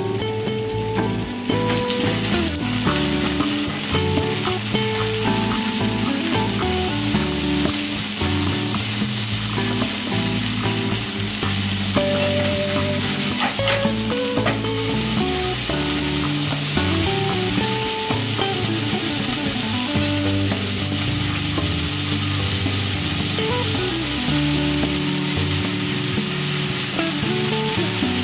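Bacon and shimeji mushrooms sizzling as they fry in a nonstick frying pan over a gas flame, stirred with chopsticks.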